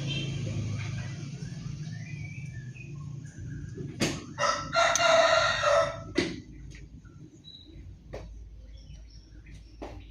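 A rooster crows once, a call of about a second and a half starting about four and a half seconds in, the loudest sound here. Small bird chirps come before and after it, with a few sharp clicks, over a low rumble that dies away in the first seconds.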